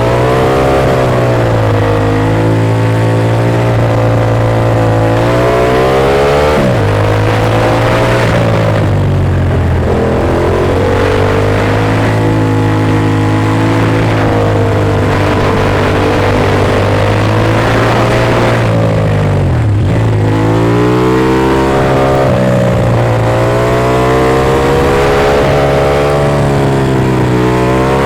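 Ducati Monster S2R's air-cooled L-twin engine on the move, its pitch climbing and falling repeatedly as the bike accelerates and changes gear, with sharp drops about six seconds in and again past the middle.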